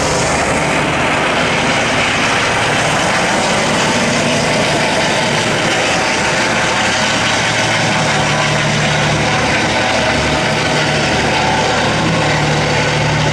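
Boat engine running steadily under a broad rush of wind and water noise.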